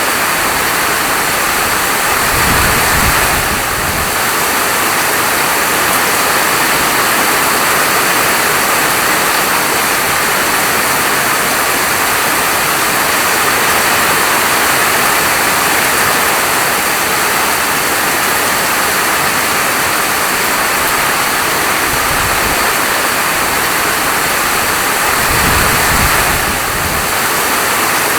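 Steady rainfall, an even, dense hiss. Brief low rumbles swell in about two seconds in and again near the end.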